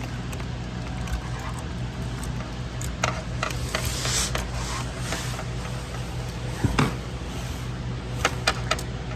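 Hands working electrical wires and lever-nut wire connectors: a few scattered small clicks and soft rustling over a steady low hum.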